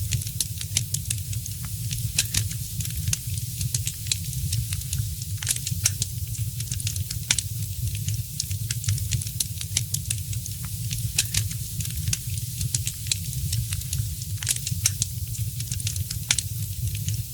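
Wood fire crackling: frequent sharp, irregular pops and snaps over a steady hiss and a low rumble of the flames.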